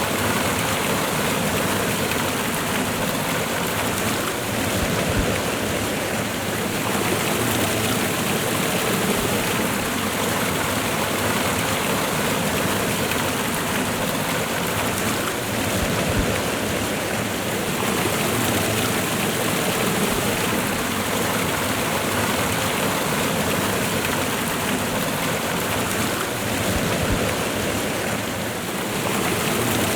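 Waterfall and running river water rushing steadily, a full, even rush with no letup.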